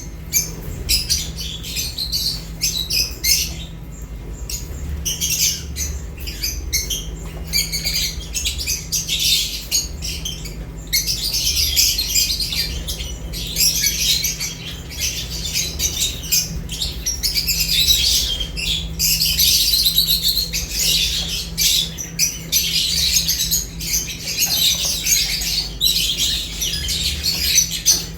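Lovebirds chattering continuously in quick, high-pitched chirps and squawks.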